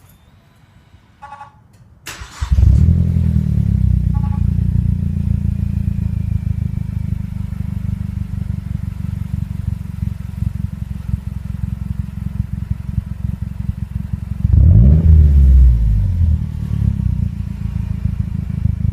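A Mazdaspeed3's 2.3-litre turbocharged four-cylinder is cranked and started a little over two seconds in, flaring up and then settling into a steady idle heard through its exhaust. About three-quarters of the way through, it is given a single rev that rises and falls back to idle. A short electronic beep sounds just before the start.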